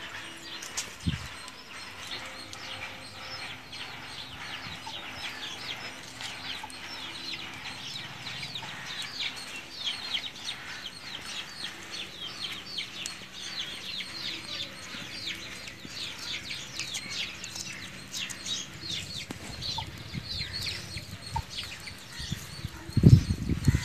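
Birds chirping, many short rapid chirps repeating without pause. A loud thump near the end.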